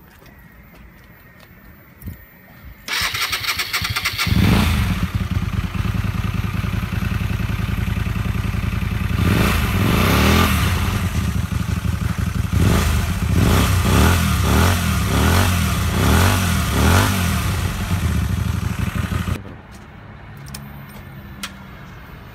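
Hyosung GT125R's 125 cc V-twin through a short GP-style exhaust: the starter cranks about three seconds in and the engine catches a second later and idles. It is revved once, then blipped in a quick series of short revs, and cuts off near the end.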